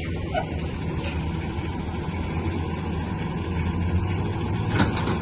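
Large vehicle engine idling steadily, a low even hum, with a brief click near the end.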